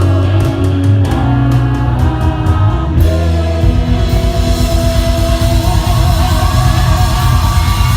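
Live gospel rock band playing loud, with electric guitar, drum kit and singing. About halfway through, the drums change to a fast, even, driving beat.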